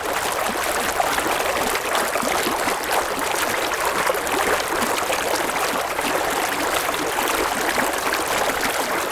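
River water flowing and splashing steadily over rocks, a continuous burbling rush.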